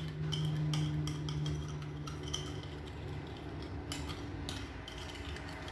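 Metal spoon clinking and scraping against its container while stirring instant coffee, sugar and hot water into a paste, in a run of irregular small clicks. A low steady hum sounds under it for about the first half.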